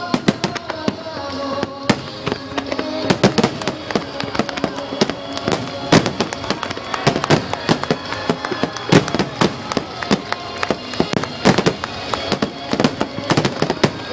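Aerial fireworks bursting in a rapid barrage, many sharp bangs a second that build up about three seconds in, over background music.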